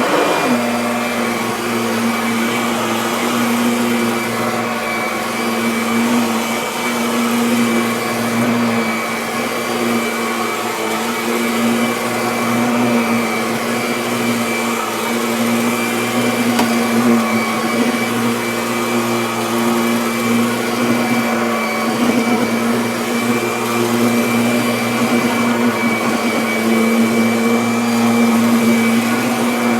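Kirby Avalir upright vacuum cleaner running steadily while vacuuming carpet. Its motor hum holds one steady low tone, swelling slightly in loudness now and then.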